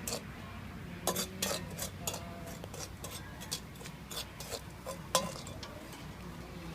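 Irregular light clicks and clinks, many over a few seconds, some with a brief ring, over a low steady hum: hard objects such as cups or cutlery being handled.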